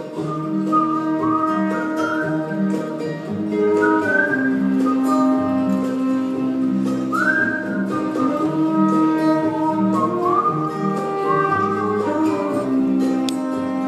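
Live band playing an instrumental passage: guitar over a pulsing bass line and held chords, with a high melody line whose notes slide upward several times.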